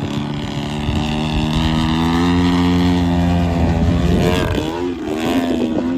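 Desert Aircraft DA-120 twin-cylinder two-stroke gas engine on a large RC aerobatic plane running at high power in flight. Its pitch holds steady, drops briefly about four and a half seconds in, then climbs again.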